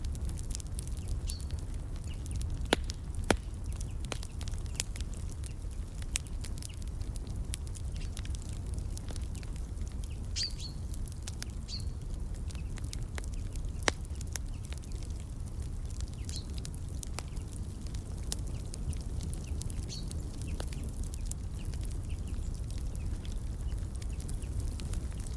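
Fireplace crackling: a steady stream of small sharp clicks, with louder pops near 3 and 14 seconds in, over a low steady rumble. A few short, high bird chirps are scattered through.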